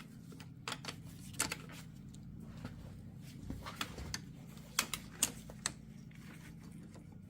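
Scattered light metallic clicks and knocks as a universal joint's bearing cap is worked off with a wrench, a few close together about five seconds in, over a low steady hum.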